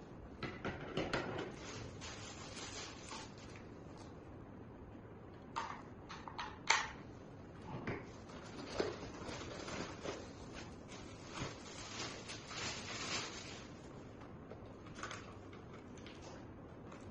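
Scattered light knocks, clicks and rustles of objects being handled, over a faint steady hiss.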